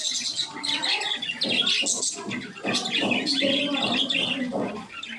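A flock of budgerigars chirping and chattering continuously.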